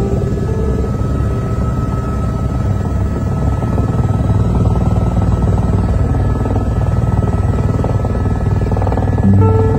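Helicopter running steadily, a dense low rotor chop. Background music fades out near the start and comes back near the end.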